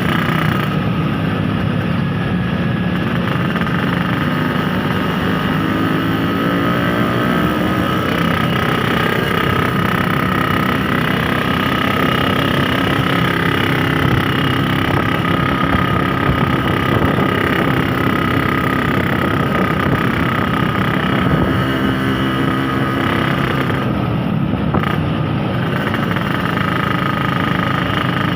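Yamaha RX-King 135 two-stroke single-cylinder engine running while riding through traffic, its pitch rising and falling as the rider opens and eases off the throttle.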